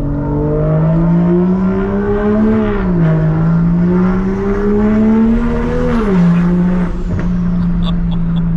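Big-turbo BMW B58 turbocharged inline-six in a Mk5 Supra accelerating: the engine note rises, drops at an upshift about three seconds in, rises again, and drops at a second upshift about six seconds in. It then settles to a steady cruise.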